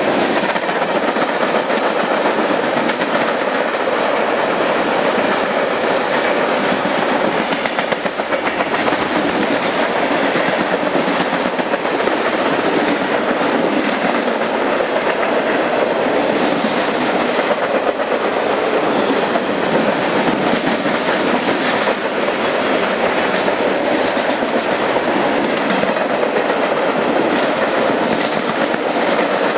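Union Pacific freight train rolling past at speed over the bridge: a loud, steady rumble and clatter of wagon wheels on the rails.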